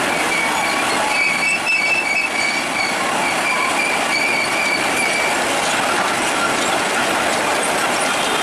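Steady, loud mechanical rumble and grinding with high metallic squealing wavering through it, the squeal strongest in the first half.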